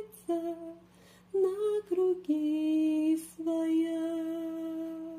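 A woman singing a slow melody, with no instrument heard, ending on one long held note.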